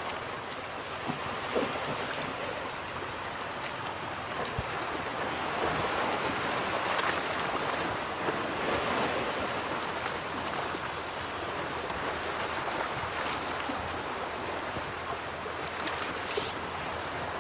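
Ocean waves breaking and washing up on a beach: a steady rushing surf that swells in the middle, with a few small clicks and a brief high hiss near the end.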